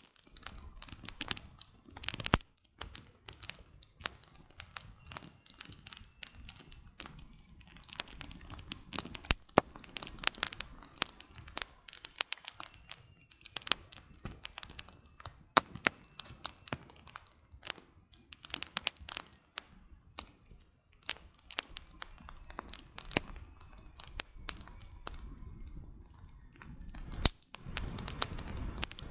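Wood burning in a campfire, crackling with a dense, irregular stream of sharp pops and snaps over a soft low rush of flame.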